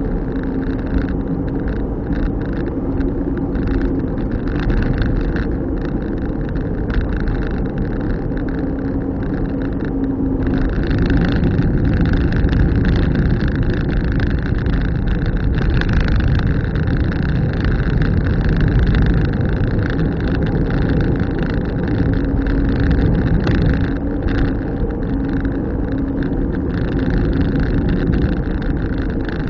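Car driving along: a steady rumble of engine and tyre noise, with a low hum that fades in and out.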